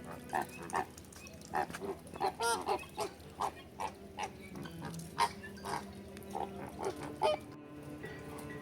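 Birds calling: a rapid run of short, sharp calls, several a second, with the loudest just after five seconds in and again around seven seconds.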